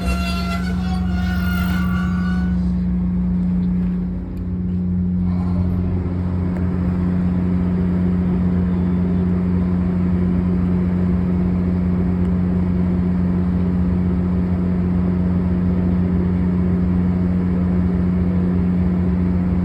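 Steady low drone of a Virginia Railway Express commuter train's diesel locomotive running at the platform, holding one constant pitch. Background music fades out in the first few seconds.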